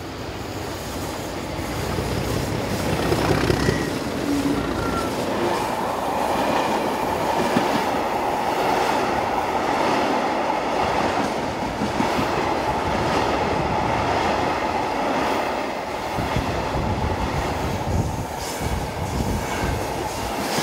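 Freight train of empty stanchioned log wagons, hauled by a class 37 diesel, passing along the platform. It gets louder over the first few seconds as the train nears, then a steady rolling rumble of the wagons' wheels with clickety-clack over the rail joints.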